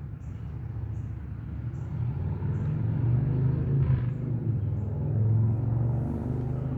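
A low outdoor rumble that grows louder around the middle, with faint short high chirps repeating about every 0.8 seconds.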